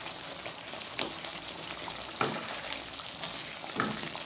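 Chicken karahi gravy sizzling and bubbling in a wok on high heat as its water is cooked off, with a few scrapes of a spatula mashing the tomatoes and turning the chicken.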